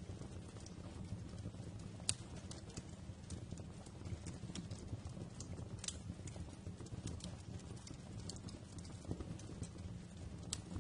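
Wood fire crackling in a fireplace: a steady low rumble of burning with irregular sharp pops and snaps, one louder pop about two seconds in.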